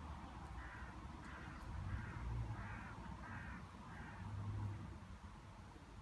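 A bird calls about five times in a row, each call a little over half a second after the last. Under the calls, bumblebees buzzing in the lavender make a low hum that swells and fades.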